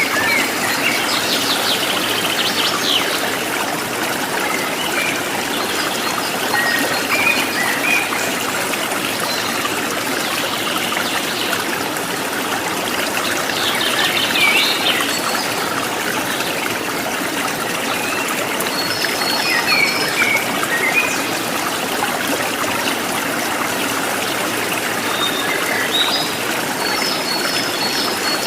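Running water trickling and babbling steadily in a stream, with small birds chirping over it in short bursts every few seconds.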